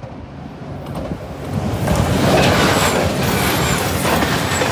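JR Shikoku 2000 series diesel tilting train passing close by, its engine and wheel-on-rail noise building from about a second in and staying loud as the cars go past.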